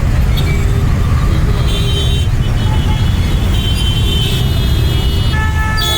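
Road traffic with a steady low rumble, and a vehicle horn sounding near the end.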